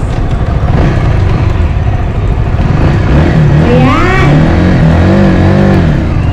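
Honda Supra GTR 150 motorcycle's single-cylinder engine running under way, its pitch rising and falling several times in the second half as it revs through the gears, over heavy wind rumble on the action camera's microphone.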